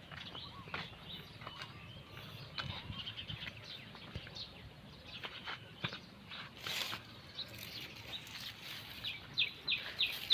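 Birds chirping in short calls, ending in a quick, even run of repeated chirps, about four a second, near the end.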